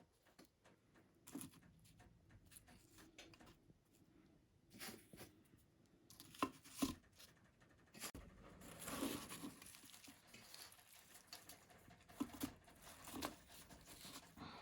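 Faint handling noises: scattered soft taps and clicks with bits of rustling. The rustling is loudest about nine seconds in.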